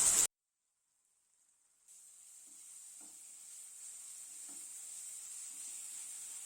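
Onion, tomato and ginger-garlic paste sizzling in hot oil in a pan, frying off the raw smell of the paste. After a short spell of dead silence near the start, the sizzle comes back faint and slowly grows louder, with a few soft knocks of a spoon stirring.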